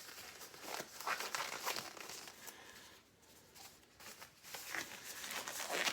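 Disposable exam gloves being pulled onto the hands: a run of short crinkling rustles, with a quieter moment about halfway through.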